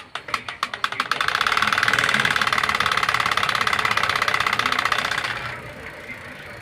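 Bicycle spokes flicking a homemade noisemaker that mimics a KTM Duke motorcycle engine. Separate clicks speed up over the first second into a fast, continuous engine-like rattle, which fades away after about five seconds as the wheel slows.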